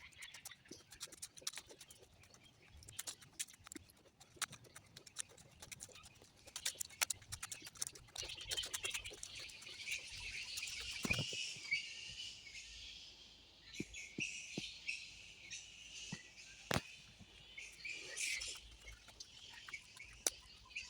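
Footsteps crackling and snapping through dry leaf litter and twigs. Birds call and chatter in the trees, thickest from about eight seconds in to near the end, with a short break around the middle of that stretch.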